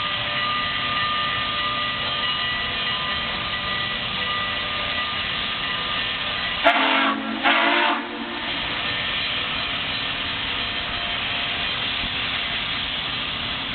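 Southern Pacific 4449, a 4-8-4 steam locomotive, running with a steady hiss and rumble. About seven seconds in, its steam whistle sounds two short blasts, one right after the other.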